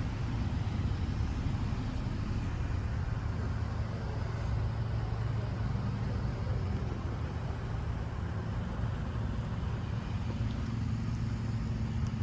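Car engine running at a steady idle, a constant low hum with no changes.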